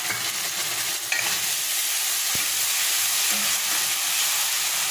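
Tomato paste sizzling in hot oil as it is stirred into frying onions and masala in a kadai, the spatula scraping through it; the sizzle gets louder about a second in.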